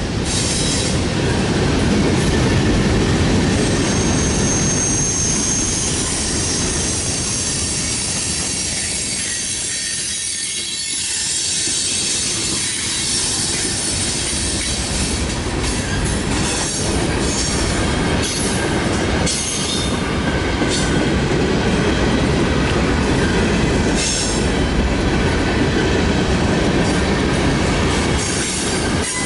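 Norfolk Southern freight train's hopper cars rolling past: a steady rumble of steel wheels on rail, with a brief high wheel squeal a few seconds in and sharper clacks over the rail joints in the second half.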